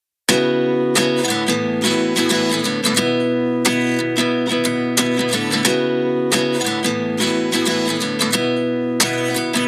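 Background music: a strummed acoustic guitar intro.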